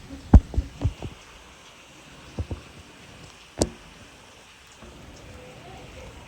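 Heavy rain falling steadily, broken by a few sharp thumps: three in the first second, two more about two and a half seconds in, and one near the middle.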